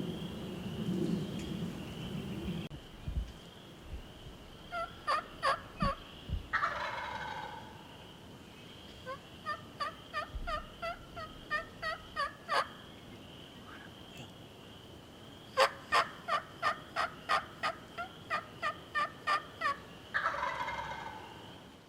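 Wild turkeys calling: a tom gobbles twice, once about seven seconds in and once near the end. Between the gobbles come three runs of quick turkey yelps, about three notes a second. A steady high insect drone runs underneath.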